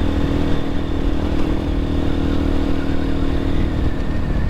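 X-Pro Templar X 250 dirt bike engine running at a steady pace while riding a dirt road, with a continuous low rumble.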